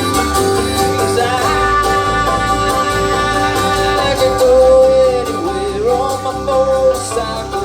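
Live country-rock trio playing a guitar-led instrumental passage of the song, with a lead line that slides and bends in pitch from about four seconds in.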